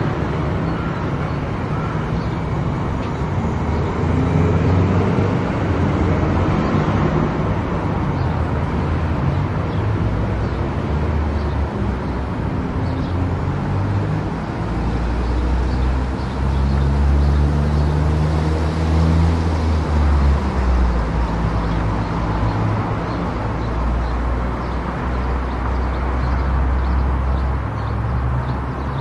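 Car driving on an expressway: steady tyre and road noise under a low engine hum, which shifts in pitch and grows louder through the middle.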